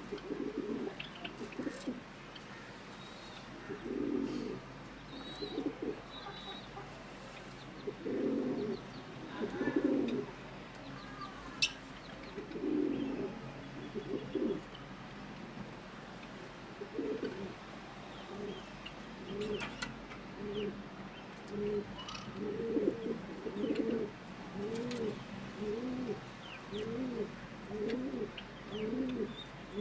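Pigeons cooing over and over with low, rounded coos, settling into a regular run of about one coo a second in the second half. Faint high chirps of small birds and a single sharp click about midway.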